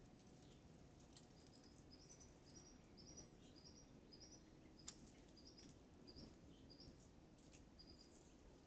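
Faint, high, short chirps repeating about three times a second, often in quick stepped pairs, with a few light clicks among them.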